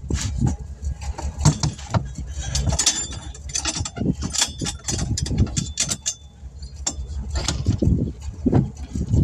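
Metal tools and small parts clinking and rattling in irregular clicks, over a steady low rumble.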